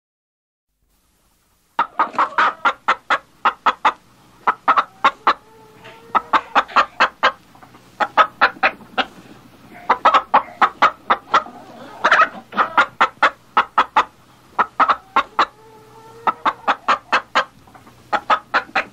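A hen clucking, starting about two seconds in: quick runs of short, sharp clucks with brief pauses between the runs.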